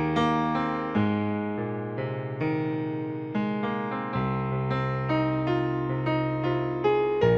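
Background music played on piano or electric piano: struck notes at a moderate, even pace over held bass notes.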